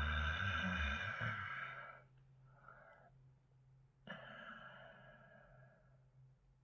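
A woman's long, breathy sigh close to the microphone, given as a wordless reaction. A second, softer exhale follows about four seconds in.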